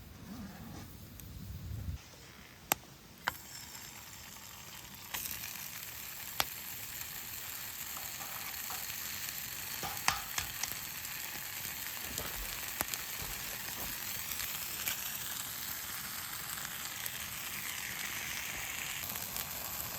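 Food starting to sizzle in a hot pan about five seconds in, then frying steadily, with a few sharp clicks and taps before and during.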